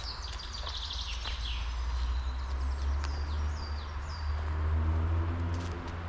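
Forest birds singing: a fast trill in the first second or two, then short downward-sliding calls. Underneath is a low steady rumble that grows louder from about halfway through.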